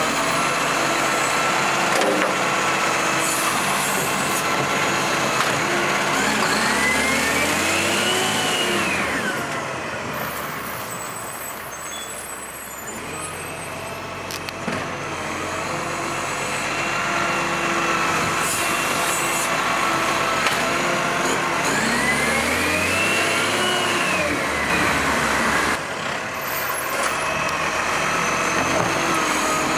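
MacDonald Johnston GenV garbage truck running, its engine and hydraulics twice rising and falling in pitch about fifteen seconds apart, the sound of the truck working through a collection cycle.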